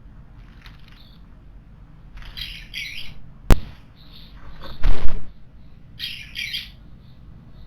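Wild birds calling at a garden stone water basin: two short clusters of rapid, harsh high calls. Between them, one sharp loud click and a brief loud rushing burst, the loudest sound.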